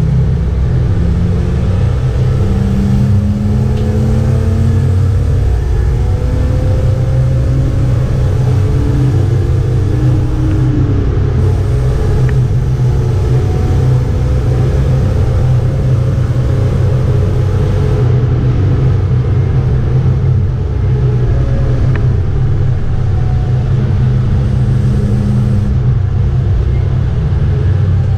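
BMW 325 E36 race car's straight-six engine pulling at speed, heard from inside the cabin: a deep, steady engine sound with road and wind noise, its pitch climbing in long pulls several times.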